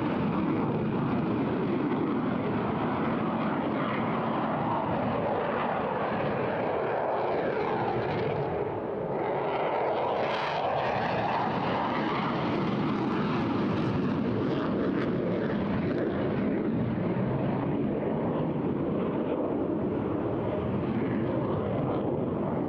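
Eurofighter Typhoon's twin Eurojet EJ200 turbofan engines, a steady, dense jet noise as the fighter flies a slow-speed loop, dipping briefly about nine seconds in.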